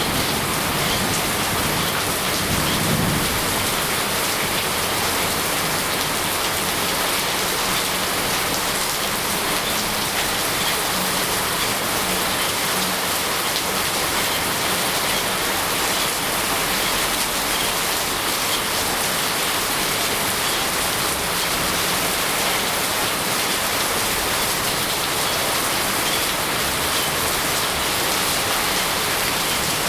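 Steady, even rain, with the tail of a low thunder rumble dying away in the first three seconds.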